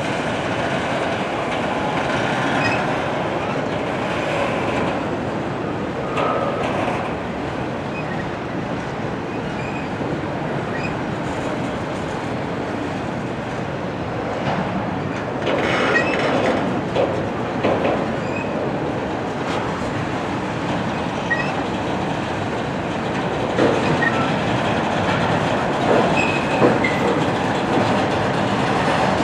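Railroad cars rolling steadily past, the wheels running over the rails with occasional sharp knocks and short, high wheel squeals now and then.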